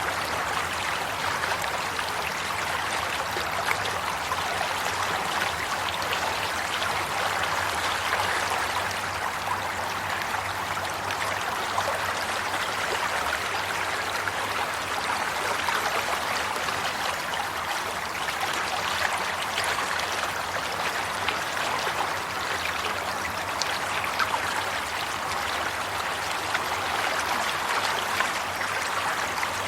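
Flowing stream water, a steady babbling and trickling with fine splashes throughout.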